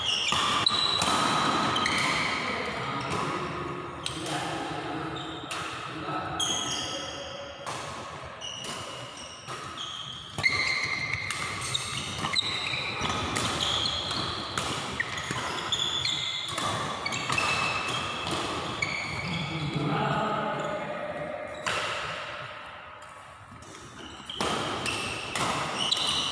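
Badminton rally: rackets repeatedly striking a shuttlecock in sharp cracks, with players' voices and calls echoing in a large hall.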